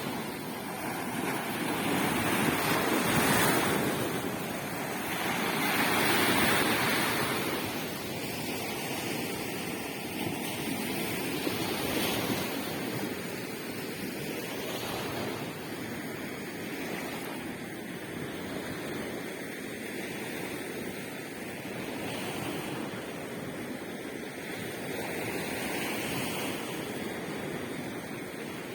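Sea waves breaking and washing on the shore, swelling in loudness every few seconds, with wind buffeting the microphone. The sea is rough for the first time in days.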